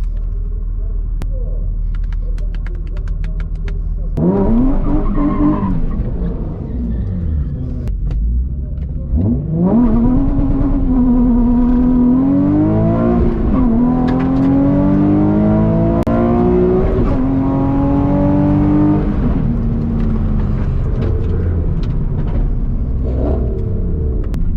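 Nissan 350Z Nismo's VQ35HR V6 making a full-throttle drag-strip launch. The engine revs briefly about four seconds in, then from about ten seconds its pitch climbs through the gears with a short dip at a shift, before easing off near nineteen seconds.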